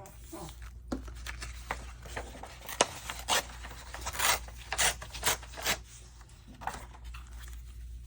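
Sheets of paper being handled on a craft table: a run of sharp rustles and crinkles, busiest in the middle, over a steady low hum.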